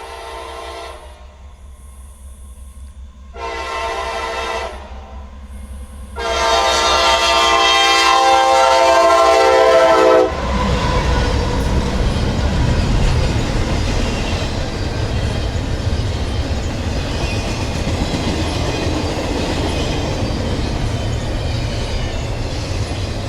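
Locomotive air horn sounding a grade-crossing signal: the end of one blast, a short blast about three seconds in, then a loud long blast held for about four seconds. As the horn stops, the train passes with a steady heavy rumble and the clatter of wheels on the rails.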